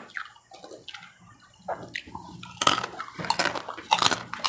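Close-up crunching and chewing of crisp macaroni chicharon, a pork-rind snack. It starts with scattered soft crackles and becomes a denser run of sharp crunches in the second half.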